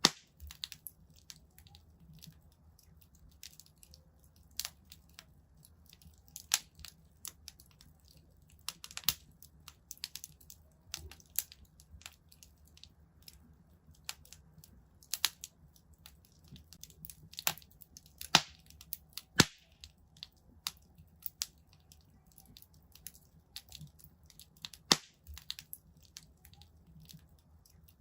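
Wood fire in a fireplace crackling: irregular sharp pops and snaps, a few louder ones, over a low steady rumble of the burning logs.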